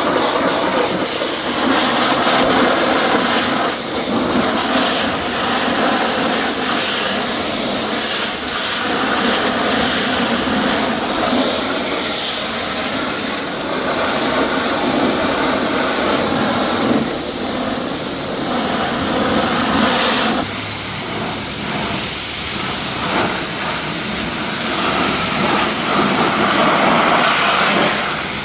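Pressure-washer jet spraying water against a car's body, a steady loud hiss that swells and dips as the spray moves over the panels.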